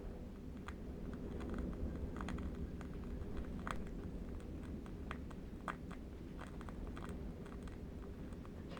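Crackling of a burning candle wick, with small irregular clicks and pops over a steady low rumble of distant wind.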